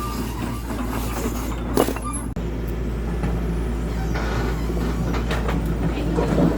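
An engine runs steadily with a low hum, with scattered knocks and clatter over it.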